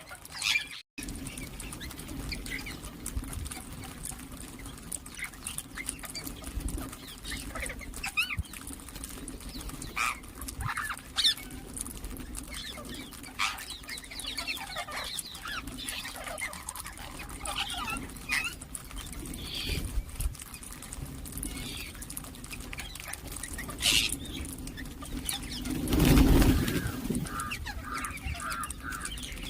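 Birds calling in short, scattered chirps and squawks over a steady low hum, with a brief loud rush of noise about 26 seconds in.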